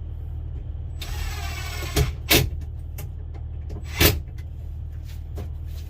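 A power drill whirs for about a second, likely driving a fastener to secure the cabinet, followed by three sharp knocks, over a steady low hum.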